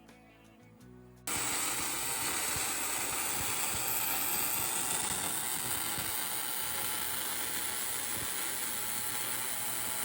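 Quiet guitar music, then about a second in a Kemppi semi-automatic welder's arc strikes and runs with a steady, even noise. This is overlay weld build-up on a worn steel gearbox bore, with a stable arc that sounds like good welding.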